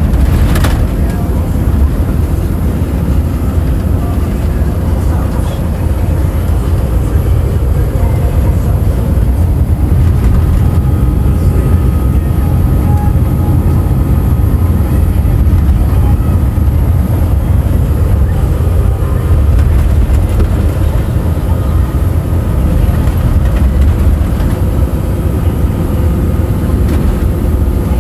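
Truck driving along: a loud, steady low engine and road rumble.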